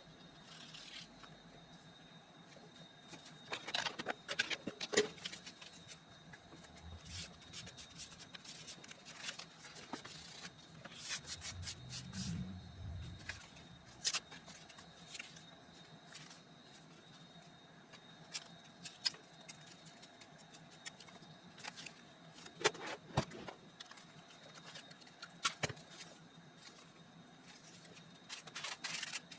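Paper being handled and worked for a junk journal: scattered rustling, rubbing and light taps, with a faint steady high tone underneath.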